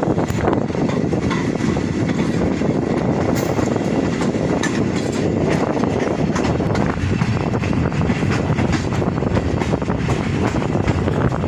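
Passenger train running at speed, heard from aboard at an open window: a steady rush of running noise with the wheels clicking over the rails.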